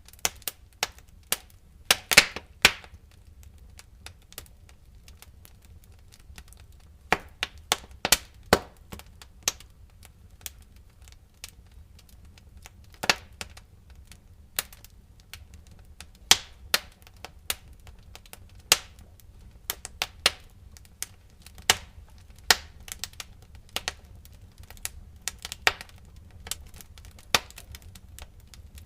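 Wood fire crackling: irregular sharp pops and snaps, some in quick clusters, the loudest about two seconds in, over a low steady rumble.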